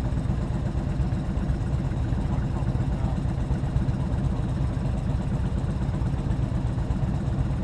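Motorcycle engine running steadily as the bike rides along, a constant low rumble.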